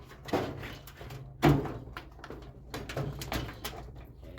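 Clunks, knocks and rattles of sheet-metal parts being handled and pulled loose while a microwave oven is taken apart, with one loud knock about a second and a half in.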